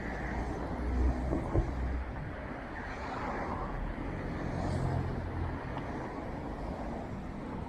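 Road traffic during a bike ride: motor vehicles go by with a low engine rumble, twice, over steady road and tyre noise. There is a sharp knock about one and a half seconds in.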